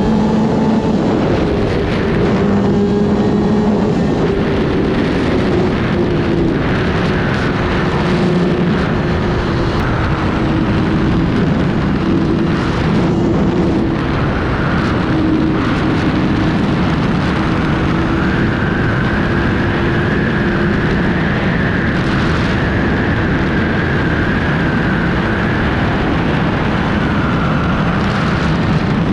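Kawasaki ZX-6R's inline-four engine running while riding at a fairly steady speed, its note holding roughly level with small rises and dips, over a steady rush of noise.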